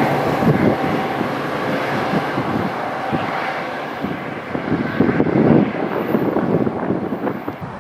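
Diesel-hauled commuter train moving away down the line, its engine drone and running noise fading steadily.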